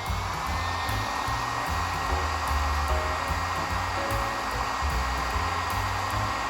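Heat gun blowing steadily with a thin high fan whine, drying out moisture trapped in a stripped and sanded wood tabletop.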